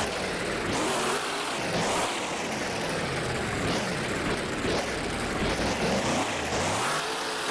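Truck engine revving up and dropping back again and again over a loud rushing noise.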